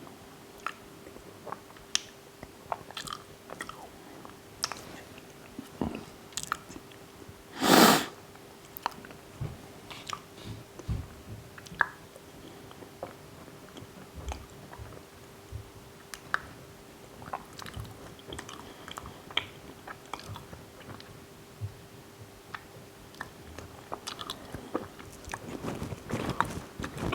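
Close-up chewing of a mouthful of Reese's Puffs cereal and milk that is hard to swallow: scattered wet mouth clicks and crunches, with one louder short noise about eight seconds in. A faint steady hum runs underneath.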